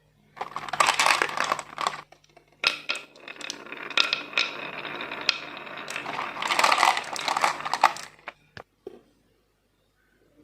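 Marbles rolling and clattering down a plastic marble run, with many sharp clicks in surges, over a low steady hum. The rattling and the hum stop about eight and a half seconds in.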